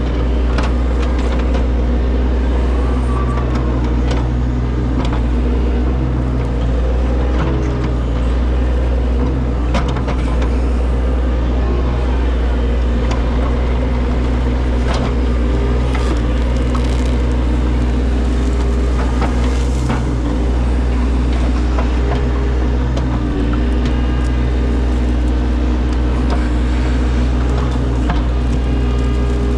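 Excavator's diesel engine running steadily, with scattered short knocks and clanks.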